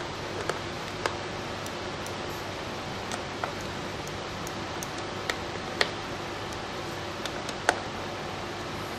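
Screwdriver and screws clicking and ticking against metal while the screws holding a semiconductor cooler plate are tightened. There are a few scattered sharp clicks, the loudest near six and eight seconds in, over a steady hiss.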